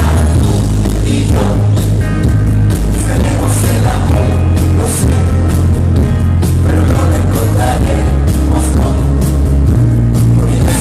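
Live pop-rock band music played loud through a concert sound system, with a heavy bass line and drums.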